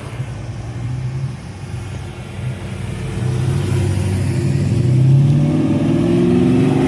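Ford SN95 Mustang Cobra V8 running with a deep exhaust rumble. It grows louder from about halfway through as the car accelerates.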